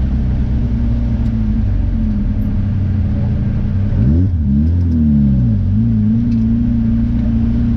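Car engine heard from inside the moving car, running steadily, with one brief rev about four seconds in that rises and then falls back over a second or so.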